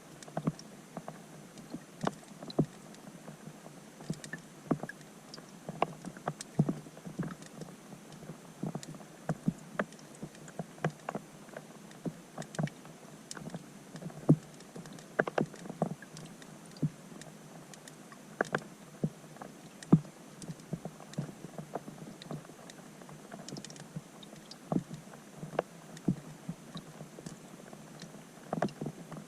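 Raindrops striking a pond's surface, heard underwater through a GoPro's waterproof housing: an irregular patter of sharp plinks and ticks, several a second, over a faint steady hiss.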